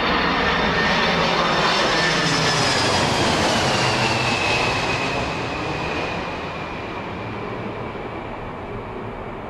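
Airplane engines passing by: a loud roar with a high whine that slides down in pitch, fading away over the last few seconds.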